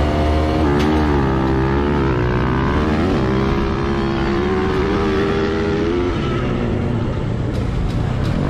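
Dirt bike engine revving, its pitch rising and falling over and over, then settling into a rougher, steadier drone for the last couple of seconds.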